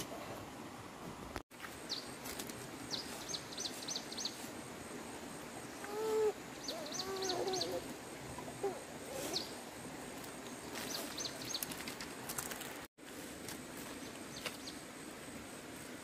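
Small birds chirping outdoors in repeated quick runs of four to six short high notes over a steady background hiss. A fainter, lower wavering call comes in around the middle, and the sound cuts out completely for an instant twice.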